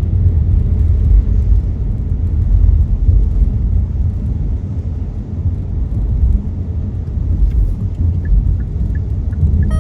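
Steady low rumble of a car's tyres and engine while driving on rain-wet city roads, heard from inside the cabin. A few faint short high ticks come near the end.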